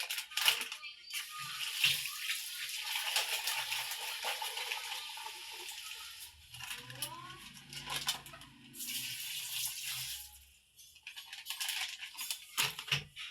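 Water running and splashing into a laundry basin for several seconds, with scattered clicks and rustles before and after.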